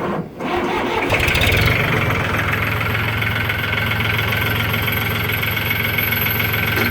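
Lenar 274-1 tractor engine being cranked by its starter, catching after about a second and a half, then idling steadily.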